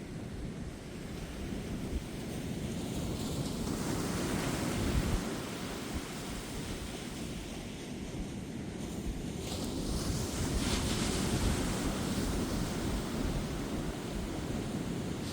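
Ocean surf breaking on a beach, the wash swelling about three seconds in and again more strongly near ten seconds, with gusty wind rumbling on the microphone.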